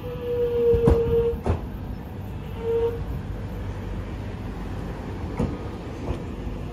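X'Trapolis electric train running slowly along the platform as it comes in to stop: a whine that slowly drops in pitch and cuts off about a second and a half in, returns briefly near three seconds in, over a steady rumble. The wheels clack over the rails a few times.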